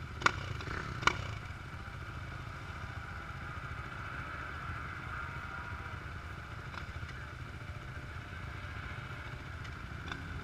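Dirt bike engines running steadily in the background, with two sharp clicks about a second apart near the start.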